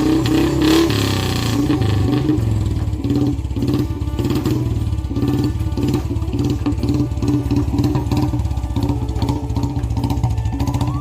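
Toy Bullet motorbike running, its electronic engine sound mixed with a repeating tune, a short pattern about twice a second.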